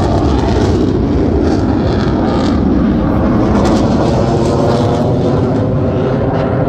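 Blue Angels jet aircraft flying over, a loud steady rumble of jet engine noise.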